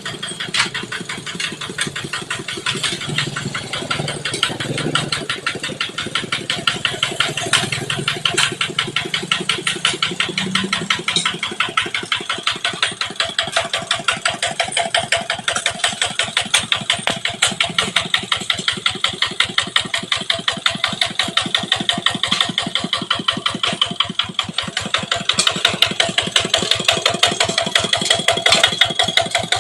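Kubota ET80 single-cylinder diesel engine on a walking tractor running steadily, with a rapid, even chug of firing strokes; it gets a little louder in the last few seconds.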